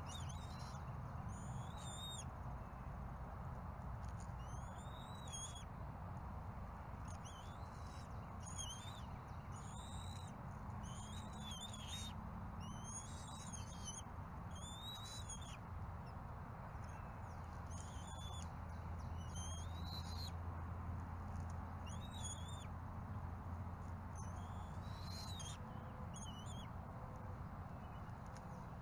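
Short high bird chirps, repeated every second or two, over a steady low hum.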